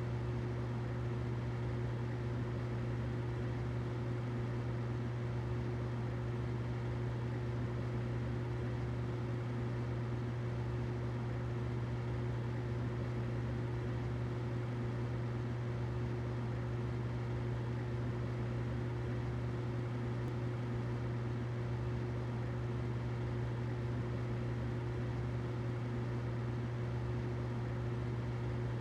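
Humidifier running: a steady, unchanging low hum with a fainter even hiss over it.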